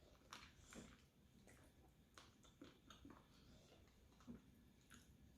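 Near silence with faint, scattered small clicks and chewing noises from people eating a noodle soup with chicken feet.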